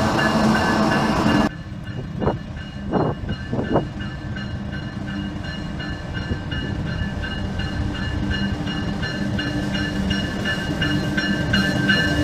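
A train running, loud until an abrupt cut about a second and a half in. After a few short sharp sounds comes steadier train noise with a regular repeating ringing pattern, growing louder towards the end.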